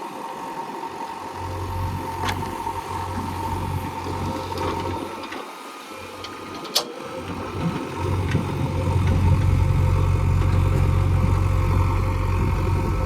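Heavy diesel engine of digging machinery running, its low rumble cutting in and out and then running louder and steadier through the second half. There is a single sharp click about halfway through.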